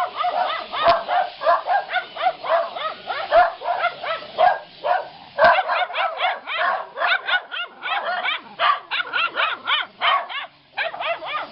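A large flock of birds in a tree calling all at once: a dense chatter of short, overlapping calls. Dogs bark among them.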